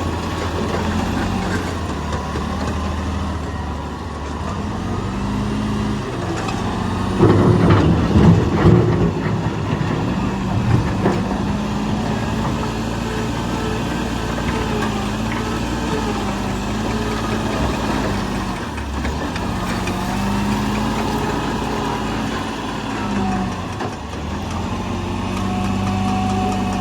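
Heavy machinery engine running steadily, its pitch rising and falling every few seconds as it works, with a loud burst of clattering and banging about seven to nine seconds in.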